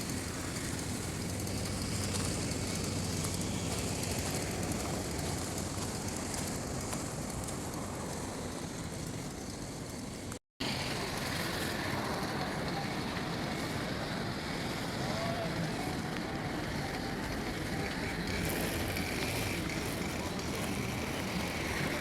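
Steady road traffic noise on a busy city street, cars passing, with a short break in the sound about halfway through where the recording is cut.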